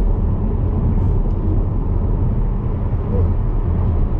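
Steady low rumble of road and engine noise inside the cabin of a petrol Skoda Superb cruising at a constant speed on cruise control.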